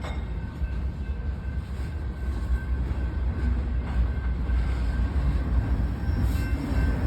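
A train rolling past, a steady low rumble of wheels on the rails.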